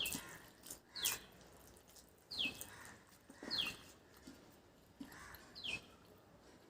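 A bird calling repeatedly: five short, falling chirps, roughly one every second or two, mixed with soft clicks.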